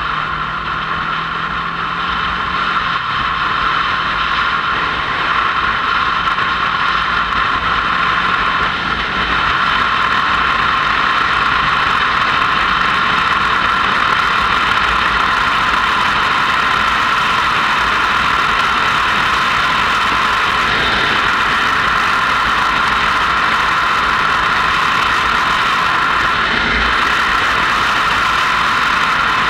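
Motorcycle under way: steady engine and riding noise, with the engine pitch rising a little in the first few seconds and the overall sound growing louder before levelling off.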